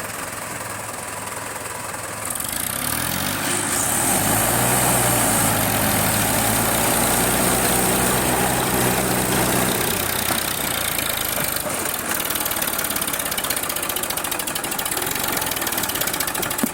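Tractor diesel engine running, revving up about two seconds in and holding a steady higher speed for several seconds. About ten seconds in it drops back to a lower, idle-like speed.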